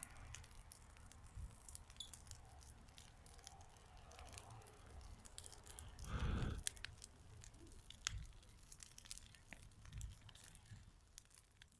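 Bonfire crackling, with irregular sharp pops and snaps over a low rumble. About six seconds in comes a brief, louder rustling burst.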